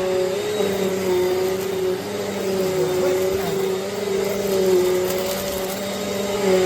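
Eureka AirSpeed bagless upright vacuum cleaner running: a steady motor whine over airflow noise, its pitch wavering slightly.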